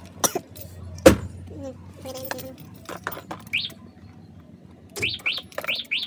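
A few sharp knocks and clicks, the loudest about a second in. A small bird chirps several times, short quickly rising chirps, mostly near the end.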